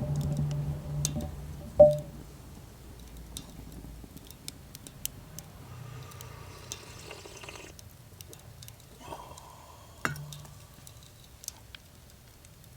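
Wood fire crackling faintly with scattered small pops, with a cup or utensil set down with a ringing clink about two seconds in and another sharp knock about ten seconds in.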